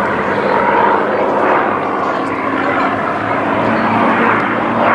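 Piston-engined Second World War fighter flying overhead, its propeller engine running loud and steady. The level drops suddenly at the very end.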